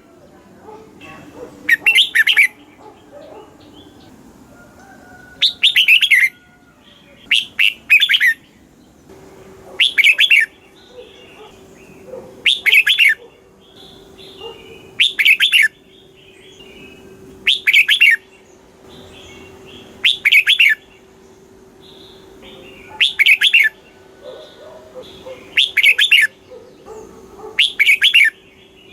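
Red-whiskered bulbul singing loud, short song phrases, one about every two and a half seconds, with softer chirps between them.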